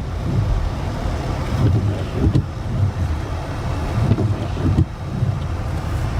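Low rumble of a car moving slowly, with wind buffeting the microphone in uneven gusts.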